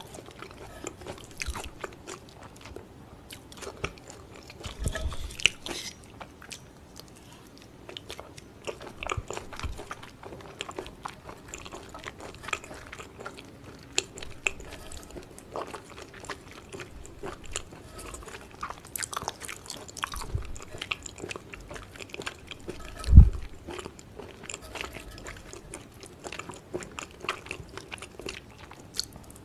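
Close-miked chewing of raw beef tartare, with small sharp clicks of metal chopsticks picking meat off a slate plate. A single dull thump about three quarters of the way through is the loudest sound.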